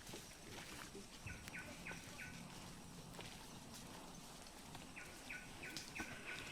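A bird calling in two short runs of four or five quick repeated notes, about a second in and again near the end, over faint outdoor background noise.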